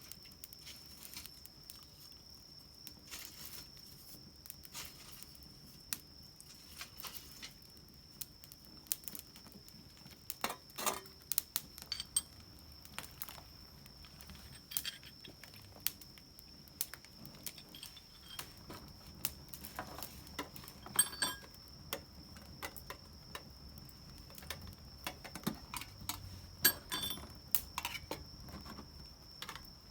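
Small wood fire crackling, with irregular sharp pops and clicks that come in clusters.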